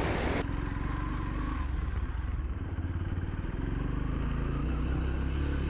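Motorcycle engine running at a steady riding pace, heard from on the bike, a low even engine note. A loud hiss of wind and road noise drops away about half a second in, leaving mostly the engine.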